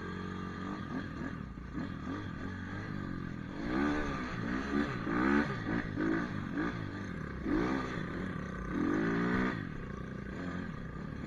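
Pit bike engine revving up and down as it is ridden, its pitch rising and falling again and again, loudest in several swells from about four seconds in to near the end.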